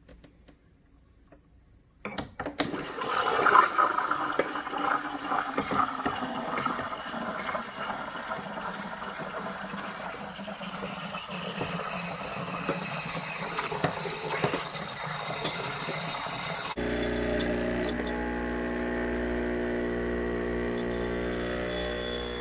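Espresso machine at work: the steam wand hissing and gurgling as it steams milk, starting suddenly about two seconds in, then cutting to a steady hum of the machine's pump for the last few seconds.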